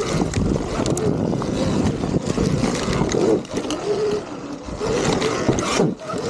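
Sur-Ron Ultra Bee electric dirt bike being ridden hard off-road: a motor whine rising and falling with the throttle over wind and tyre noise, with brief drops about three and a half and six seconds in.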